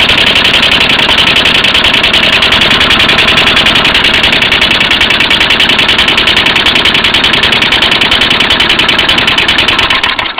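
Lawn mower engine converted to run on propane, running steadily with a fast, even firing beat, then cutting off abruptly at the very end.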